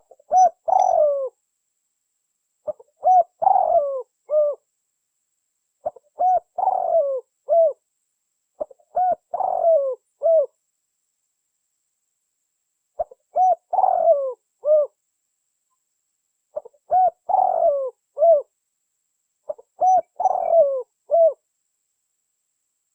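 Spotted dove (tekukur) cooing: about seven phrases of several low coos each, one every three seconds or so, with a longer pause near the middle.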